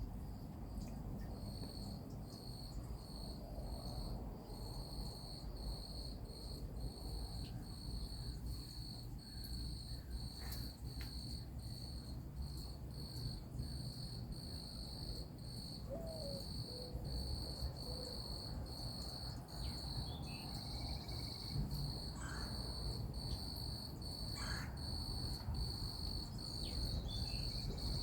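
Insects chirping in a steady pulsing chorus, a little under two pulses a second, with a few faint bird chirps in the second half.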